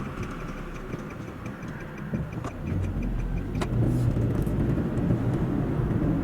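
Car engine and road noise while driving, sped up to double speed. It grows louder about three seconds in.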